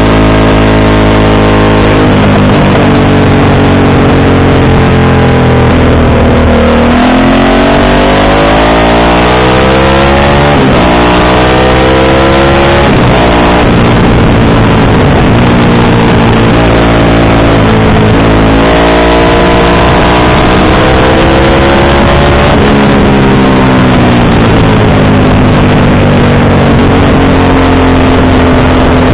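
Motorcycle engine under hard acceleration, its pitch climbing and then dropping at each gear change, several times over, with loud wind-like rush.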